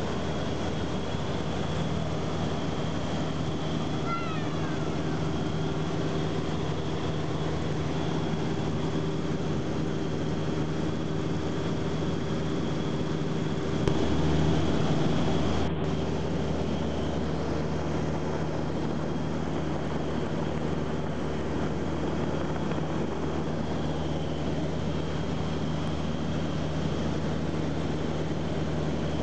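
Light propeller airplane's piston engine running at a steady drone in flight, briefly a little louder about halfway through.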